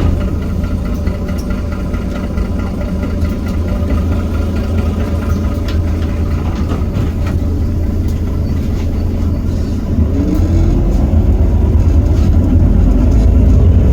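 Heuliez GX327 city bus's Iveco Cursor 8 six-cylinder diesel running steadily, then from about ten seconds in pulling harder and getting louder, with a rising whine.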